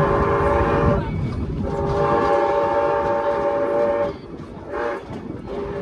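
Train whistle blowing a chord in long blasts over the rumble of the moving train. One blast breaks off about a second in, a second runs from about two to four seconds, and after a short toot a new blast begins near the end.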